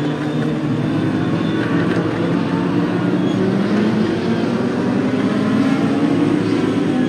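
Legend car racing engine running hard at speed, a steady engine note whose pitch drifts gently up and down.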